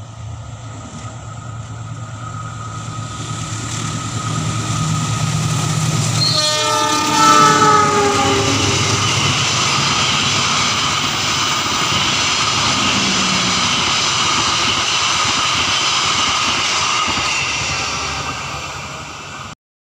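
Diesel passenger train passing close by: the locomotive's engine hum builds as it approaches, and its horn sounds about six seconds in, its pitch dropping as it goes by. The carriages then roll past in a steady rush of wheel-and-rail noise until the sound cuts off abruptly near the end.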